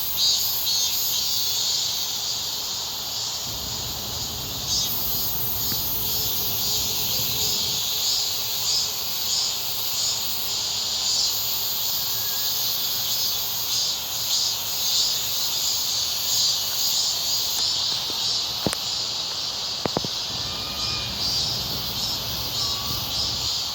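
A steady, high-pitched chorus of insects chirring with a fast pulse, with a few faint bird chirps and two sharp clicks in the second half.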